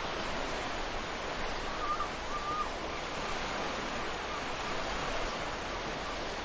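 Steady rush of ocean surf breaking on a beach, with a few short bird calls about two seconds in.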